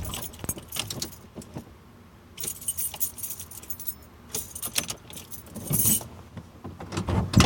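A bunch of keys jangling in several short bursts, with a loud thump near the end.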